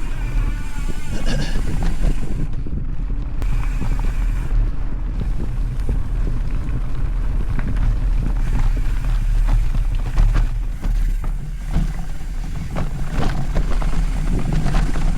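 Mountain bike rolling over a dirt trail: wind rumbling on the microphone, with irregular rattles and knocks from the bike as it rides over bumps.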